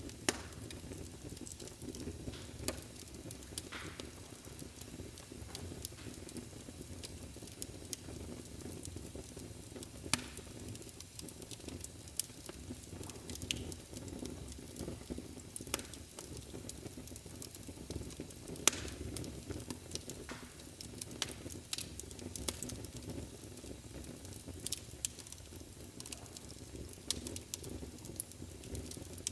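Wood fire burning in a fireplace: a steady low rumble of the flames with irregular sharp crackles and pops, a few of them louder than the rest.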